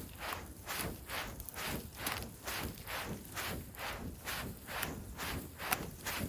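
Improvised fan of fir boughs swishing back and forth, a rhythmic whoosh about three times a second, fanning oxygen into campfire embers. One sharp click near the end.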